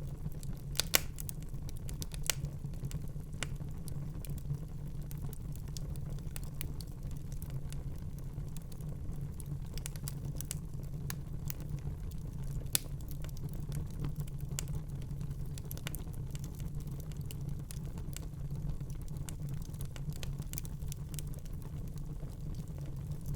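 Wood fire burning in a fireplace: a steady low rumble of flames with irregular sharp crackles and pops, a couple of louder pops about a second in and near the middle.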